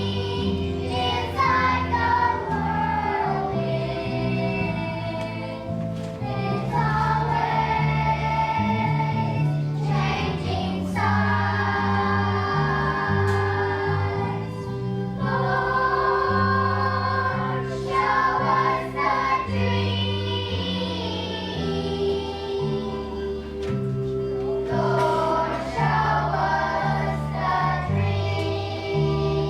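Children's choir singing a song with instrumental accompaniment: a moving bass line under sung phrases that break every few seconds.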